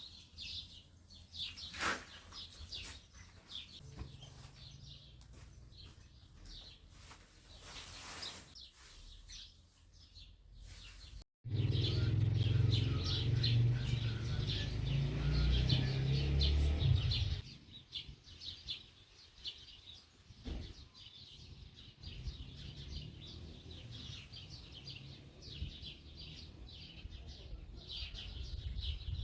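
Birds chirping, many short high chirps repeating throughout. About eleven seconds in the sound cuts out for a moment, then a louder low rumble runs for about six seconds under the chirping.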